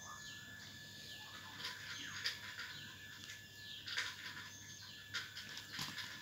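Faint birds chirping in the background, many short falling chirps in quick succession.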